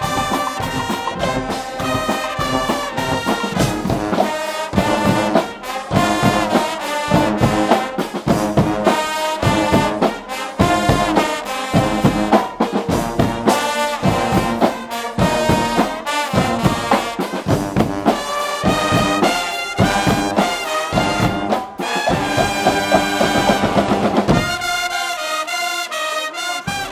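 A Guggenmusik carnival band playing loudly: massed trumpets and trombones over a pounding, regular drum beat. Near the end the drums stop and the brass holds on alone.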